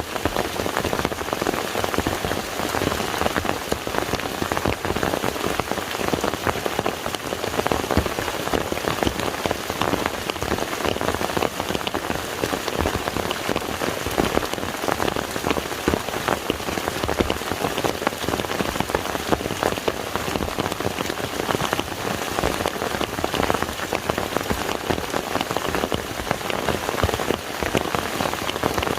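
Steady rain falling on a lake's surface: a dense, even patter of countless drops.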